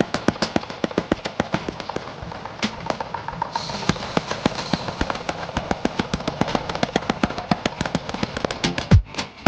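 Rapid hammer blows on steel during forging, about six sharp strikes a second, with a steady hiss joining about three and a half seconds in.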